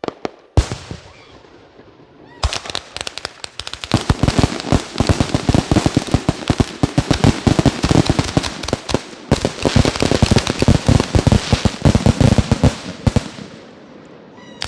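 Aerial fireworks finale: a loud bang about half a second in, then, from a couple of seconds in, a dense barrage of sharp cracks and reports for about ten seconds before thinning out near the end.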